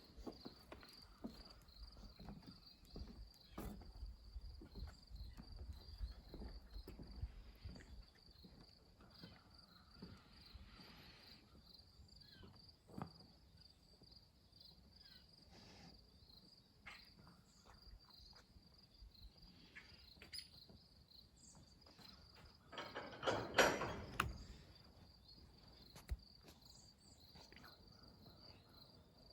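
Crickets or other insects chirring steadily in a faint, high, pulsing tone, with scattered light footsteps and a louder scraping, rustling noise lasting about two seconds late on.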